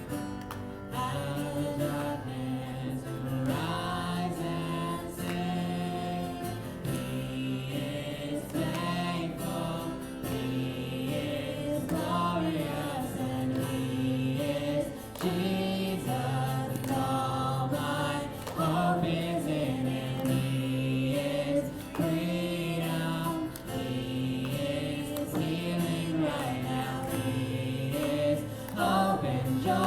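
Music: a group of voices singing a gospel song in held, sustained notes.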